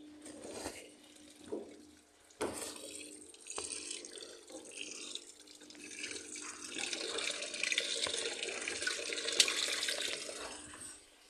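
Water running and splashing, building up through the middle and stopping shortly before the end, after a few sharp knocks at the start. A faint steady hum lies underneath.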